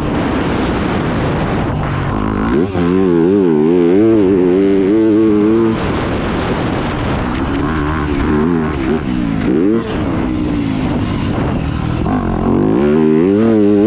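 Yamaha YZ250F four-stroke single-cylinder dirt bike engine being ridden hard, its revs rising and falling again and again with the throttle and gear changes, with a brief drop in revs about two-thirds of the way through.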